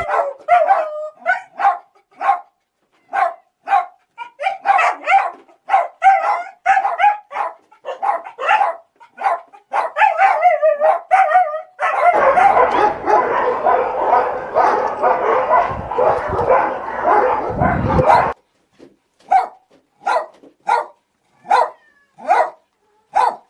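Dogs barking: separate barks and yips for the first twelve seconds or so, then many dogs barking at once in a dense din for about six seconds that breaks off suddenly, followed by scattered single barks.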